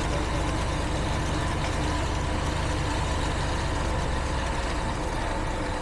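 Heavy construction truck's diesel engine running steadily at a low rumble.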